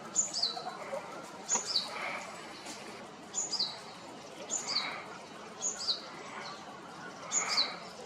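A wild bird repeating a short, high call that slides downward, six times at intervals of one to two seconds. Softer, lower calls come in between.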